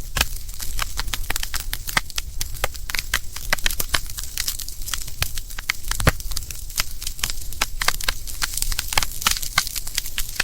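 Burning firewood crackling and popping: dense, irregular sharp snaps, one louder pop about six seconds in.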